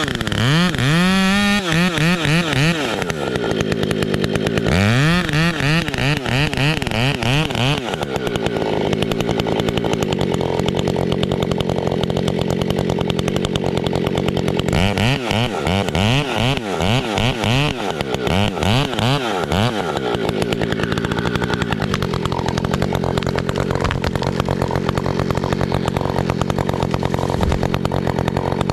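Large gas chainsaw with a modified exhaust, revved hard in quick throttle blips, then held at a steady high pitch for long stretches, as when bucking softwood firewood. Further sets of revving come about five seconds in and again midway.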